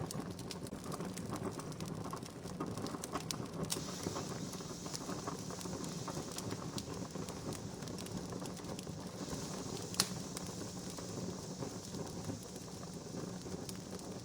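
Wood fire crackling, with scattered small pops over a steady hiss and one sharper pop about ten seconds in.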